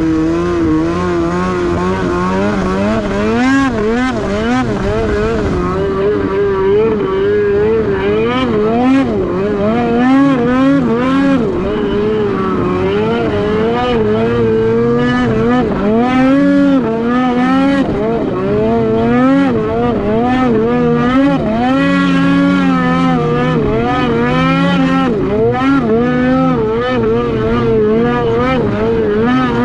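Snowmobile engine running hard with the throttle constantly worked on and off, its pitch rising and falling every second or so.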